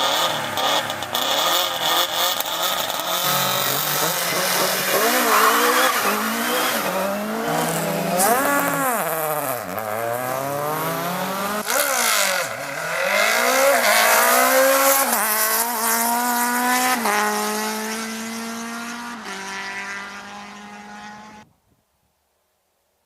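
Rally car engine on a tarmac stage, revs falling and rising sharply twice, then climbing through a run of upshifts as the car accelerates away and fades. The sound cuts off abruptly near the end.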